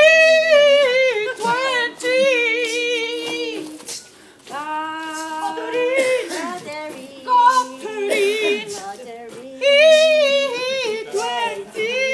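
Several voices singing a cappella in phrases: a high voice with wide vibrato over a lower voice holding a steady note, with short breaks between phrases.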